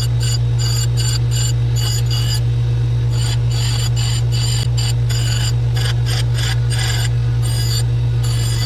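Powered grinder running steadily while a dull Craftsman chipper blade is sharpened on its single tapered edge, the steel touched to it in many short rasping passes, several a second, with brief pauses.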